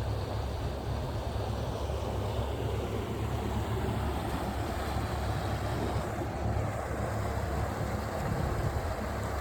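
Boat engine running steadily under way while towing, a continuous low rumble, mixed with wind buffeting the phone's microphone.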